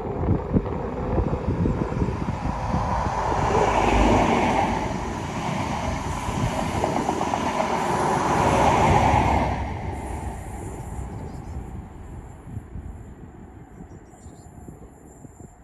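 ScotRail High Speed Train with a Class 43 diesel power car at each end passing at speed. The engine and wheel noise swells loudest about four seconds in, probably the leading power car, and again around nine seconds in as the rear power car goes by. It then fades away as the train recedes.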